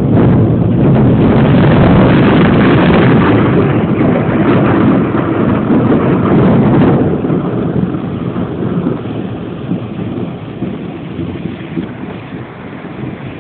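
A thunderclap that breaks suddenly and rolls on loudly for about seven seconds, then rumbles away and fades over the rest of the time.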